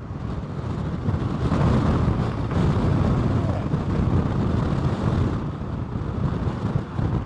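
Strong gusting wind buffeting the microphone, a heavy low rumble that swells about a second and a half in.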